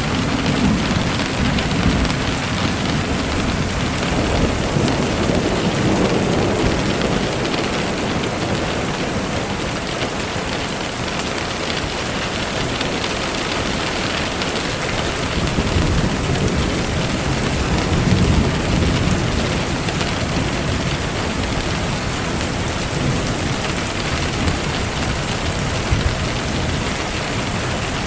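Steady heavy rain falling, with thunder rumbling low in the first few seconds and again about two-thirds of the way through.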